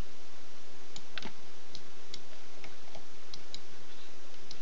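Scattered faint computer-mouse clicks, about eight of them at uneven intervals, over a steady hiss with a faint low hum.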